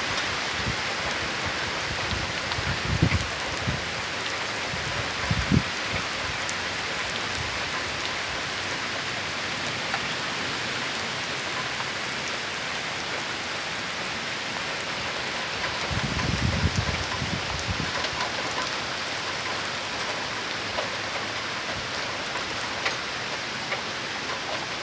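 Torrential rain pouring down in a steady hiss, with low gusts of wind buffeting the microphone about three seconds in, again a couple of seconds later, and for a couple of seconds past the middle.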